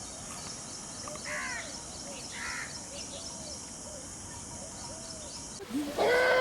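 Birds calling outdoors: two short, harsh calls about a second and two and a half seconds in, among softer repeated calls. Near the end the sound changes abruptly and a much louder, steady pitched sound begins.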